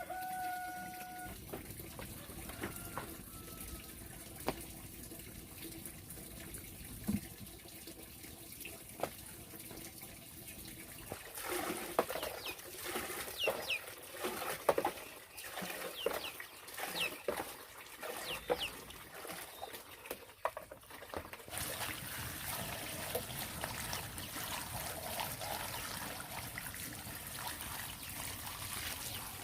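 A chicken calls once at the start. About twelve seconds in come scattered knocks and short high chirps. In the last third, water trickles steadily.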